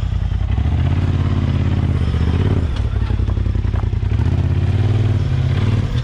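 Off-road vehicle engine working at low speed, its pitch rising and easing off several times as the throttle is fed in and let off.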